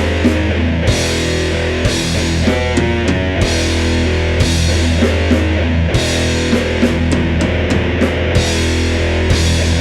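Heavy/doom metal band playing: distorted electric guitars hold heavy, sustained low chords over bass, with the drum kit hitting steadily and cymbals crashing repeatedly.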